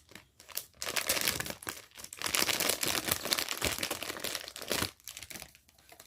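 Packaging of a blind-box collectible figure crinkling as it is unwrapped and handled: a dense, irregular crackle that stops near the end.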